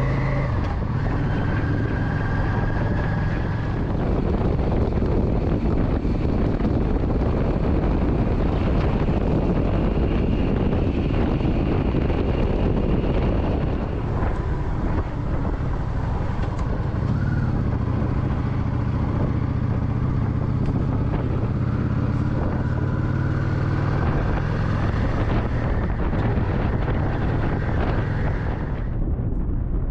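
Motorcycle engine running steadily while riding, with wind rushing over the microphone; the hiss thins out abruptly near the end.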